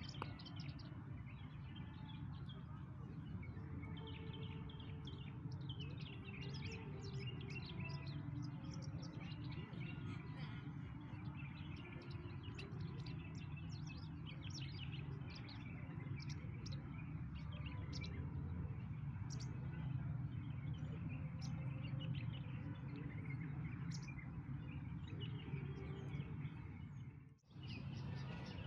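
Small birds chirping and twittering, many short calls overlapping, over a steady low background rumble. The sound drops out for a moment near the end.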